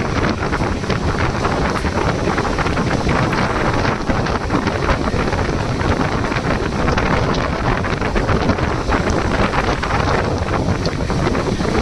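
Wind buffeting the microphone over the steady rumble of a moving train, with frequent small clicks and knocks.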